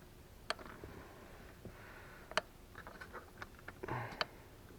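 Tar sealer being peeled back by hand: faint crackling with a few sharp clicks, the loudest about halfway through.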